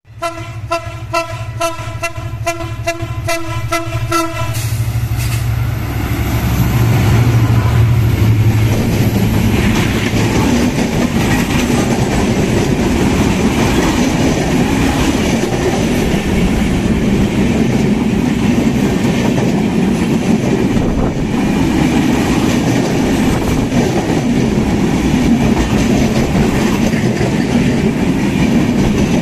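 A train horn sounds in rapid short pulses, about four a second, for the first four seconds. Then passenger coaches roll past close by: a loud, steady rumble with the clickety-clack of wheels over the rail joints.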